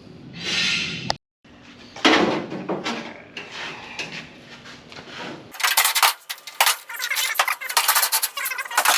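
Metalwork on a car body: metal clinking and clattering, then a dense run of rapid sharp clicks from about five and a half seconds in.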